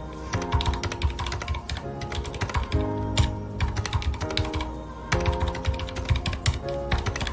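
Mechanical keyboard with red linear switches being typed on quickly and continuously, with a short pause about two-thirds of the way through, over soft background music with held notes.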